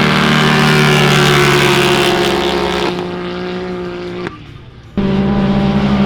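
Motor vehicle engine running at a steady pitch, with road and wind noise. About four seconds in, the sound drops away sharply for under a second, then comes back at full level.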